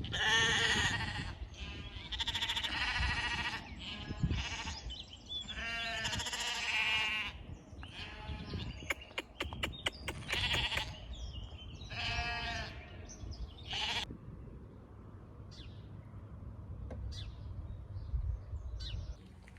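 Sheep bleating: a series of wavering bleats, about six or seven of them, which die away after roughly fourteen seconds.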